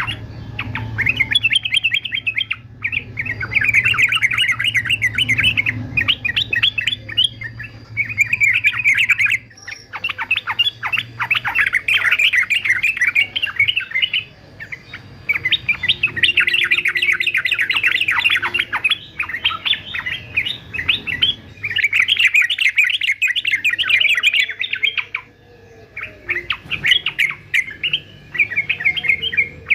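Male yellow-vented bulbul singing a fast, chattering song in bursts of one to three seconds, one after another with short breaks.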